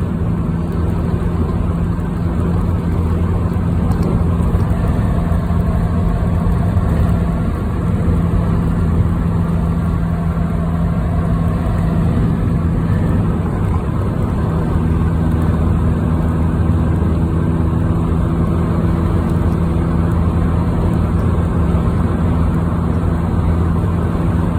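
Car driving along a highway, heard from inside the cabin: a steady engine drone and tyre-and-road noise that holds even throughout.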